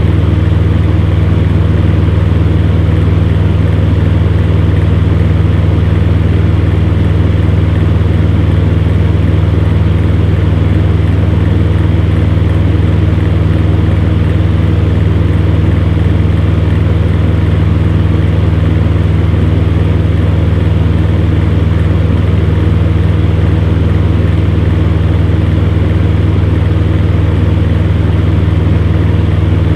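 Electric fan heater running steadily: a constant low motor hum under an even rush of air from its fan.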